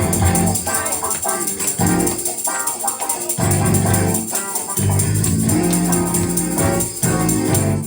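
Live gospel praise band playing between sung lines, with bass and keyboard under a fast tambourine shake.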